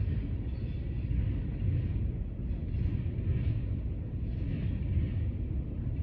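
Mixed freight train rolling past, its boxcars making a steady low rumble on the rails.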